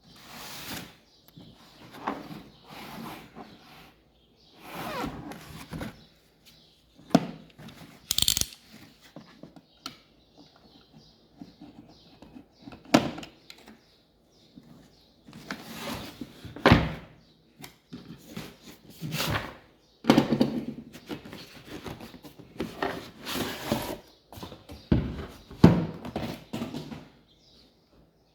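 Packaging being handled and opened: irregular rustles, scrapes and knocks of cardboard and plastic, with a few sharper thunks.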